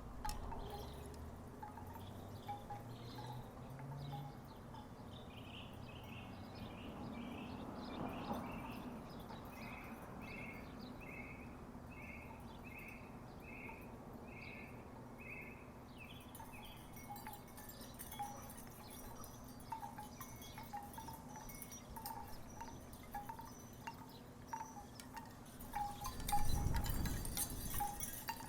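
Wooden tiki wind chimes knocking together in scattered, irregular clunks. Midway comes a run of about eight evenly spaced higher notes, and near the end a louder rushing swell.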